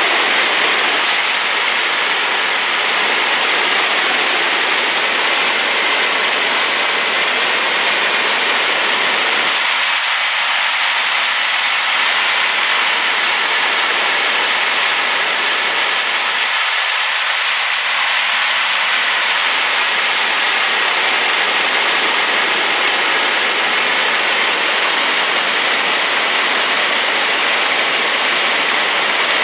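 Waterfall in flood after rain: the steady rush and hiss of heavy water falling, even and unbroken, strongest in the upper middle with little deep rumble.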